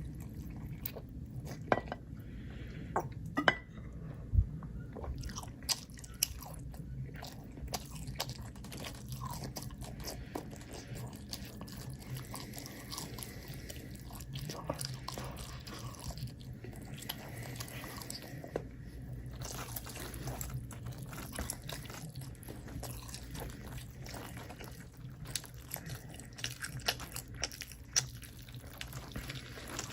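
Close-up chewing and biting of crunchy food, with irregular sharp crunches and mouth clicks over a steady low hum.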